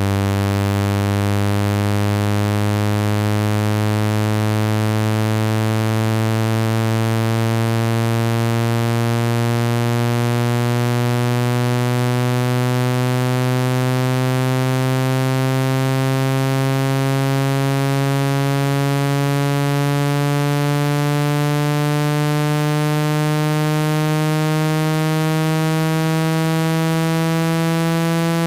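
Electronic buzzing tone, rich in overtones, sliding slowly and steadily upward in pitch. It is a speaker-cleaning tone played to vibrate trapped water out of a phone speaker.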